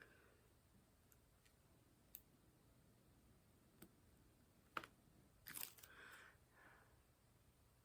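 Near silence, broken by a few faint, sharp clicks and a short rattling rustle about five and a half seconds in: small plastic tools and drills being handled while placing diamond-painting drills.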